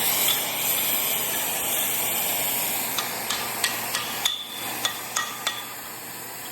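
Cutting torch hissing steadily as it heats a bearing race on a gearbox main shaft. In the second half the hiss fades and about eight sharp metal taps sound, typical of a hammer knocking at the hot race.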